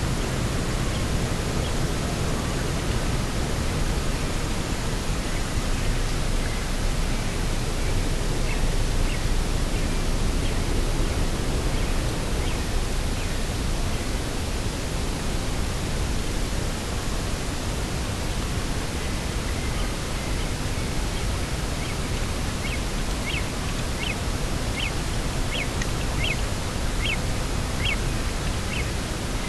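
Steady rush of coastal wind and sea, with a bird calling in short, high notes here and there, and a run of about two calls a second near the end.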